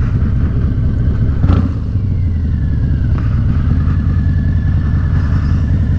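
Motorcycle engine running steadily at low speed, with a low rumble of wind across the microphone.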